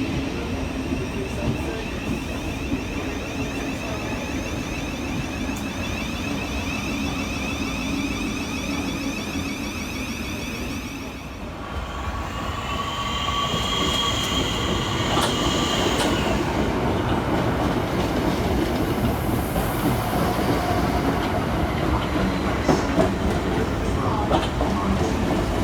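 Electric train on the rails. A steady whine of several tones gives way, after a brief dip about halfway, to a high squeal lasting a few seconds, then a rumble of wheels on track.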